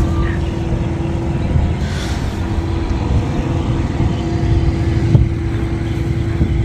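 Motorboat engine running at a steady speed: a constant hum over a dense rumble of wind and water rush.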